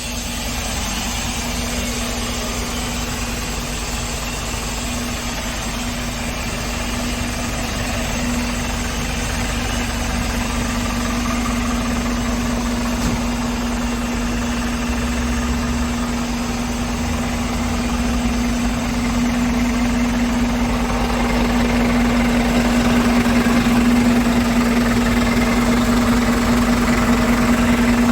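Scania P410 truck's six-cylinder diesel engine idling steadily, with a constant low hum.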